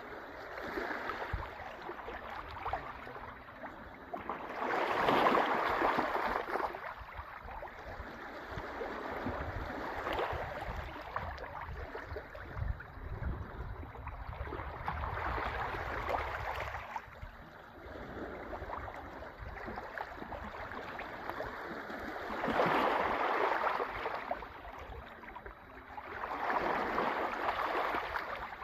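Sea waves washing in, the surf swelling and fading in surges about every five seconds, the loudest about five seconds in and again past twenty seconds.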